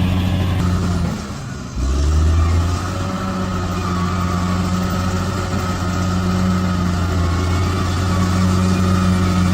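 Bulldozer's diesel engine running steadily. It drops briefly about a second in and comes back abruptly.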